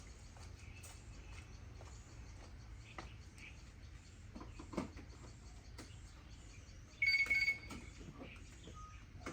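A short electronic beep, a rapid run of pulses on one high tone lasting about half a second, some seven seconds in, over faint scattered clicks and knocks of handling.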